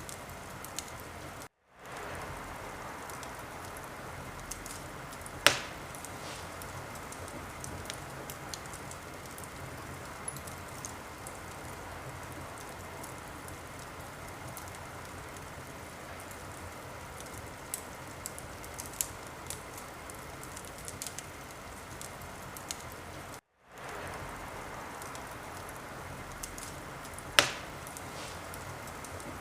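Wood fire burning in a fireplace: a steady hiss with many small crackles and two loud sharp pops. The sound cuts out for a moment twice.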